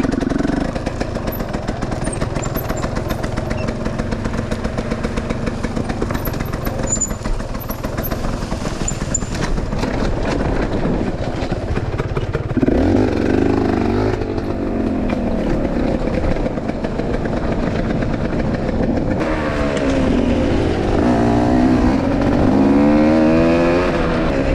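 Enduro motorcycle engine running under load, revving up and down repeatedly from about halfway in as the bike is ridden over rough trail.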